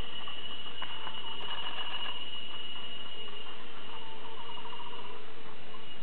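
Green broadbill giving soft, rapid trills of evenly spaced notes, one about a second in and another around four seconds in, over a steady high-pitched drone.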